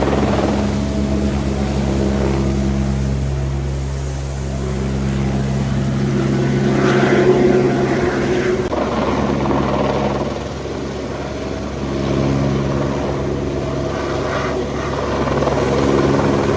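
Helicopter flying, a steady drone of rotor and engine that eases and swells in loudness.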